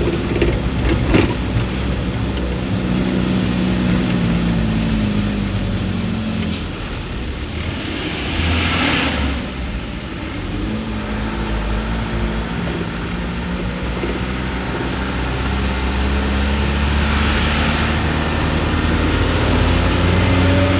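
Dump truck engine running, its pitch gliding up and down several times as it revs, with a few clicks about a second in and a brief rush of noise about eight seconds in.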